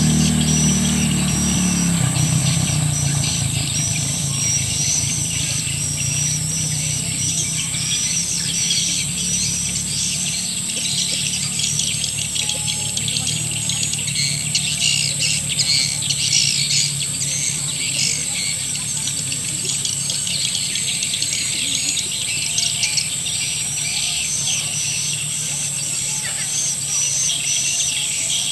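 Recorded edible-nest swiftlet lure call of the 'akau sedot senja' type: dense, continuous high twittering of many swiftlet chirps, played to draw swiftlets into a nesting house. A steady high hiss runs above it, and a low engine-like hum fades in the first two seconds.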